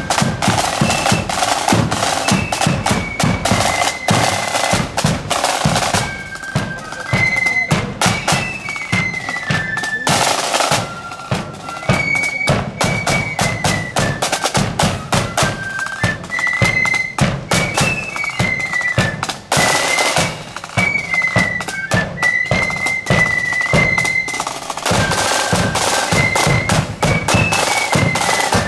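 Marching band playing: a high, piping flute melody over rapid snare drum rolls and bass drum beats.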